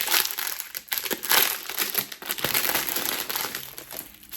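Packaging crinkling and rustling in irregular bursts as it is handled and unwrapped, quieter near the end.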